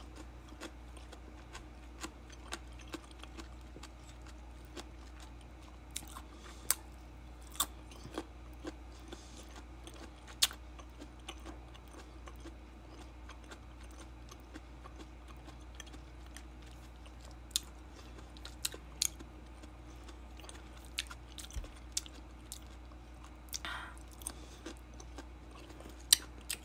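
A person chewing mango slices close to the microphone, with sharp mouth clicks at irregular intervals over a low steady hum.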